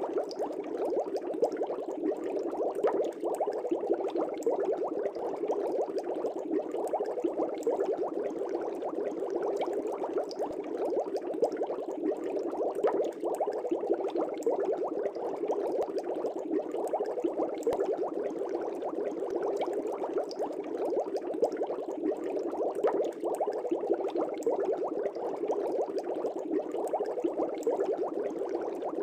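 Steady, dense bubbling of aerated water in an aquarium: a constant stream of air bubbles rising and breaking at the surface.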